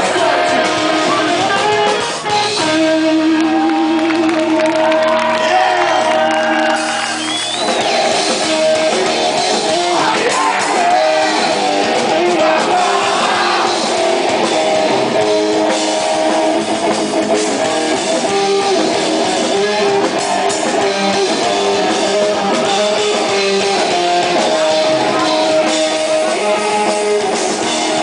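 Rock band playing live, loud: electric guitars, drum kit and singing.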